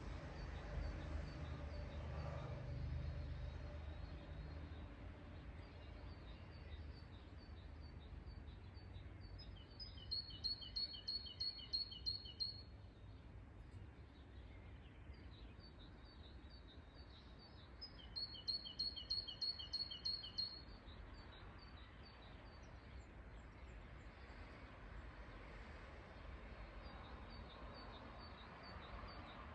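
Songbird singing outdoors: two bursts of rapid, evenly repeated high chirps, each about two seconds long, about a third and two thirds of the way through, with fainter chirping between them. A low rumble sits under the first few seconds.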